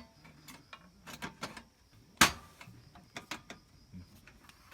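Clicks and clatter of camping cookware being handled and set down, with one sharp knock about two seconds in.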